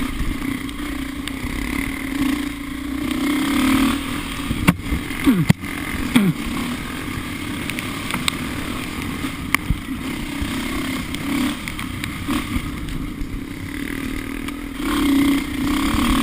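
Off-road vehicle engine running under the rider, its revs swelling and easing, with a few sharp knocks and clatters about five and ten seconds in.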